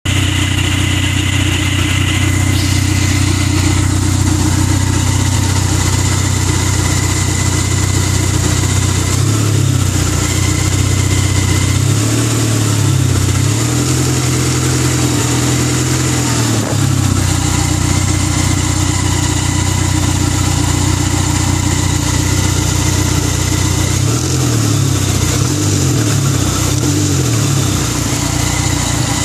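Dodge Neon SRT-4's turbocharged four-cylinder engine running steadily, its low drone wavering in pitch about ten seconds in, again for a few seconds after, and near the end, with a steady high whine over it: the odd noise the owner is trying to identify.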